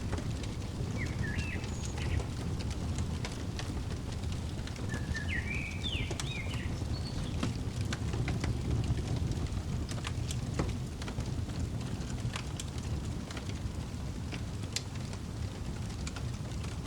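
Fireplace fire burning with a steady low rumble and scattered sharp crackles and pops. A bird twitters in short chirping phrases twice, about a second in and again around five to seven seconds in.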